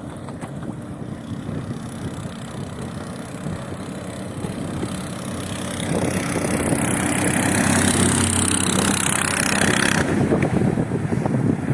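Small single-cylinder mud motor (7 hp surface-drive outboard) running on a boat, getting louder about six seconds in, with a rushing hiss for a few seconds.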